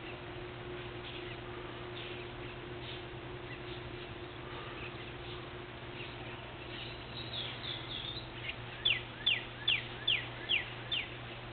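Songbirds chirping faintly here and there, then near the end one bird sings a run of six down-slurred whistles, about two a second, louder than the rest. A steady low hum runs underneath.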